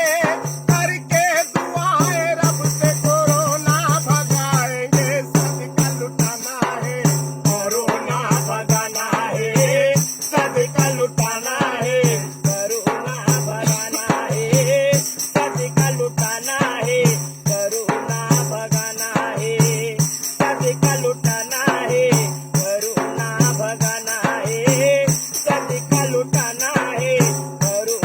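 A song: a voice singing a wavering melody over a steady beat, with a shaker-like rattle filling in between the beats.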